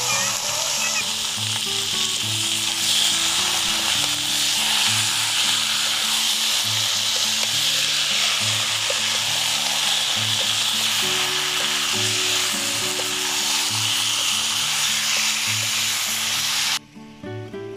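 Chicken pieces with potatoes and onions sizzling steadily in a hot karahi as they are stirred with a metal ladle. The sizzling cuts off suddenly about a second before the end, leaving soft background music.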